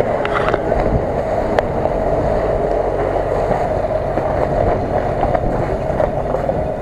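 Jeep Cherokee engine running steadily under load as the off-road Jeep climbs a muddy, snowy slope.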